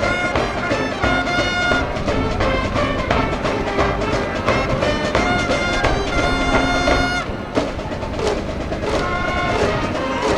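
A school cheering band's brass section, led by trumpets, plays a cheering tune over drums that keep a steady beat.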